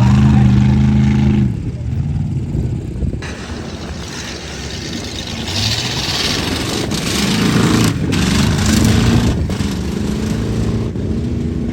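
Off-road truck engine revving hard, its pitch rising and falling several times as it is pushed through a course, with a rushing hiss partway through.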